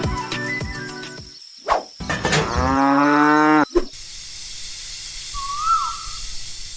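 A cow mooing once, one drawn-out call that rises and then levels off, after background music fades out. It is followed by a steady high hiss of outdoor ambience with a short chirp.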